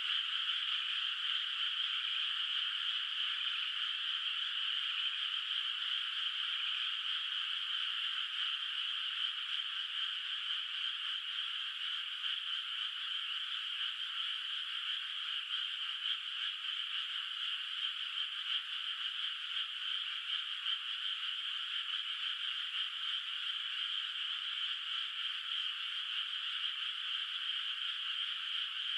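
A dense chorus of many frogs calling together from a flooded rice paddy, a steady overlapping trill with no breaks.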